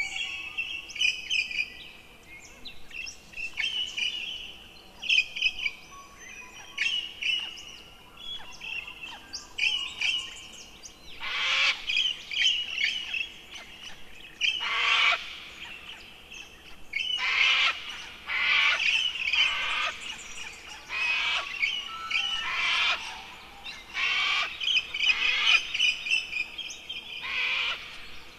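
Birds calling: a steady run of high chirps, joined from about a third of the way in by louder, harsher calls every second or two.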